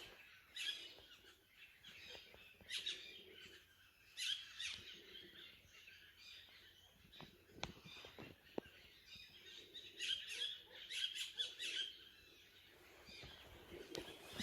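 Small birds chirping faintly in short, scattered calls that come in clusters, busiest about ten to twelve seconds in, with a couple of light clicks in between.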